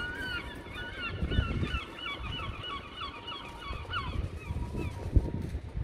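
A bird calling a fast series of short repeated notes, about four or five a second, which stops about four seconds in.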